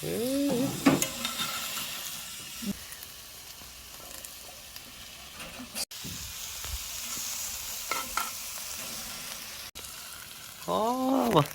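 Meat sizzling steadily as it cooks over high heat. A short voice sound comes at the start, and a drawn-out exclamation comes near the end.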